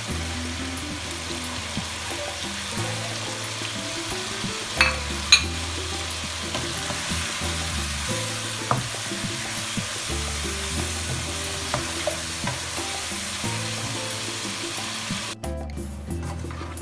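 Chicken pieces sizzling in hot oil in a nonstick pan while a spatula stirs them, with two sharp knocks about five seconds in and lighter clicks afterwards. The sizzle cuts off abruptly near the end.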